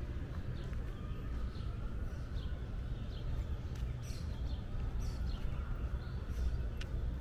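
Small birds chirping, short high chirps repeated every second or so, over a steady low rumble of outdoor background noise.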